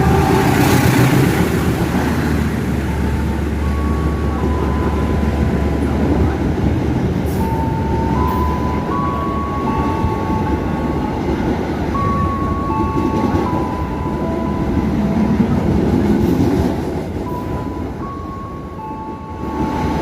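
Argo Lawu passenger train running through a station without stopping: a steady rumble of wheels on rails, with high level tones that shift in pitch over it.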